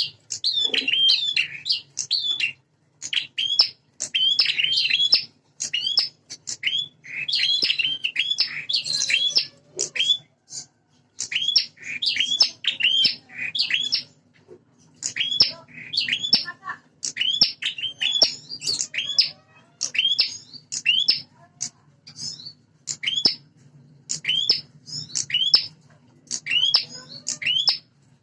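Prenjak songbirds (small Indonesian prinia and tailorbird-type warblers) calling fast and agitated: dense runs of sharp, high, repeated chirps with only brief pauses. This is the territorial fighting chatter between rival prenjak, played as a lure to provoke other prenjak. A faint steady low hum runs underneath.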